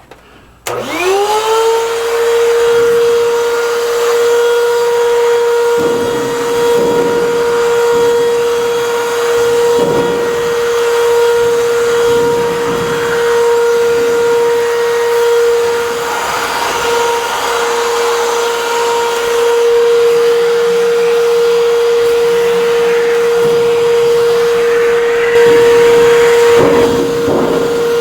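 Vacuum cleaner switched on about a second in, its motor spinning up to a steady high whine, with a changing rush of suction as it vacuums dust and debris out of an HVAC return air duct.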